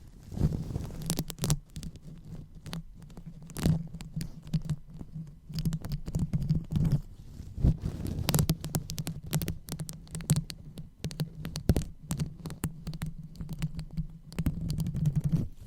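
Fingers rubbing and massaging a microphone, giving a low handling rumble throughout with dense, irregular crackles and taps.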